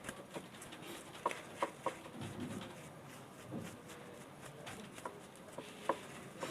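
Light scraping and rustling with scattered small clicks and taps as a table fan's motor coil is cleaned by hand on a sheet of paper.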